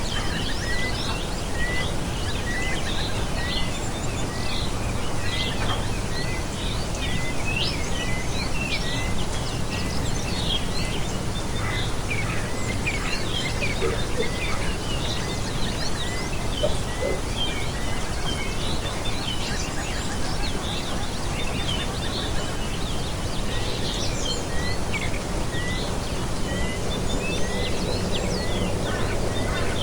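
Several birds chirping and calling, one repeating a short note a little faster than once a second, over a steady rushing background noise.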